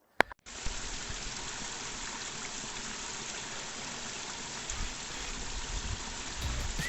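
Steady rushing noise, starting abruptly about half a second in after a single click, with a few low thumps near the end.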